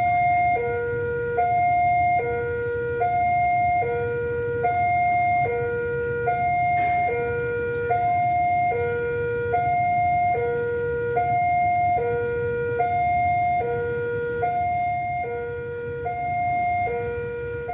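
Railway level-crossing warning alarm sounding a two-tone electronic signal. It alternates steadily between a high and a low tone, each lasting a bit under a second, over a low rumble.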